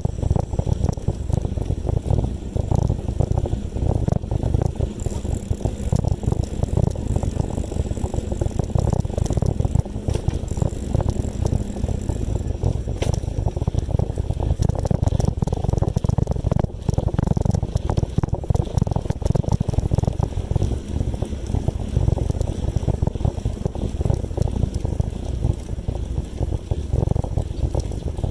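Wind buffeting the microphone of a moving bicycle: a steady, loud, low rumble that flutters constantly.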